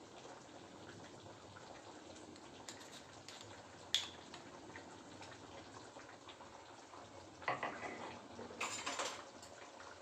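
Kitchen cooking sounds: a steady low hiss, one sharp clink about four seconds in, and two short bursts of pots and utensils clattering near the end.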